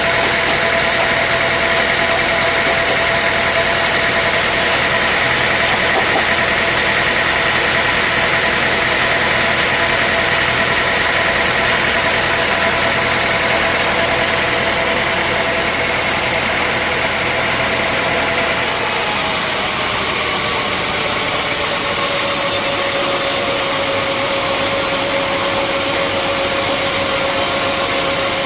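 Sawmill machinery running steadily: an engine sound with a high-pitched whine, the whine dropping slightly in pitch about two-thirds of the way through.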